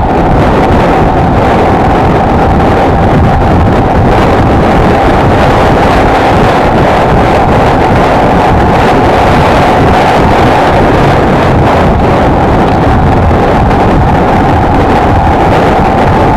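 Honda XLR125R's single-cylinder four-stroke engine running at a steady pitch while riding, under heavy wind noise on the microphone.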